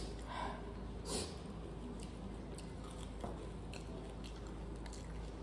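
Faint eating sounds: quiet chewing with a few light clicks and soft ticks.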